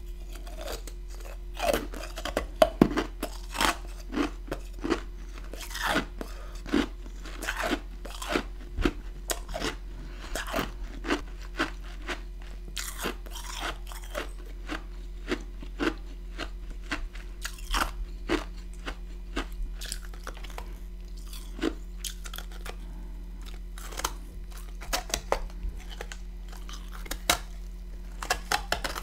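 Close-up chewing of chunks of freezer frost: a continuous, irregular run of sharp, crisp crunches, with a faint steady hum underneath.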